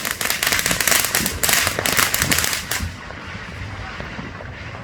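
Fireworks and firecrackers going off in a dense, rapid crackle of pops, thinning to a fainter crackle about three seconds in.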